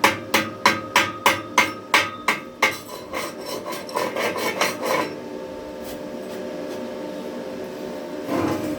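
A hammer striking welded steel about three times a second, each blow ringing, then lighter, quicker strikes and scraping until about five seconds in. After that a steady faint hum remains.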